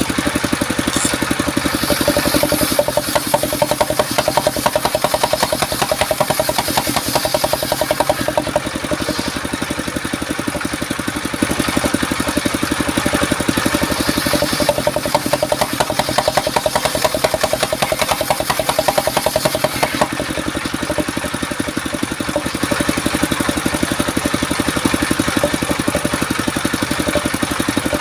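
Engine of a portable circular sawmill running steadily with a fast, even firing beat, its note swelling somewhat at times.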